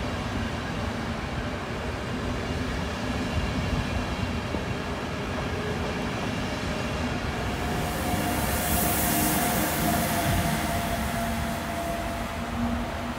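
Electric push-pull intercity train of NS Bombardier Traxx locomotives and ICRm coaches pulling out and rolling past, wheels on rail with a steady hum and whine of electric traction. A high hiss swells about eight seconds in and fades again.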